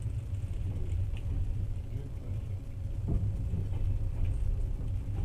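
Passenger train carriage running along the track, heard from inside as a steady low rumble, with a single knock about three seconds in.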